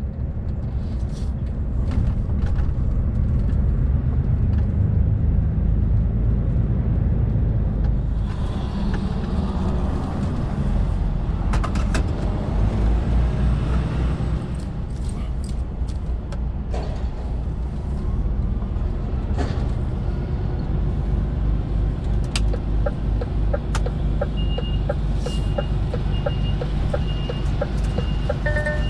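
Heavy goods lorry's diesel engine running steadily at low speed as it turns into a yard. Near the end a high, evenly repeating beep starts, about one and a half beeps a second.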